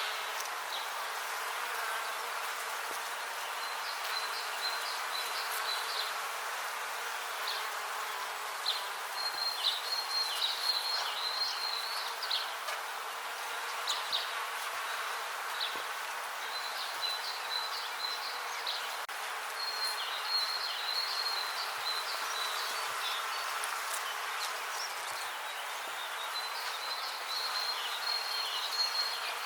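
Many bees buzzing steadily together. Short high chirping trills come in now and then over the buzz.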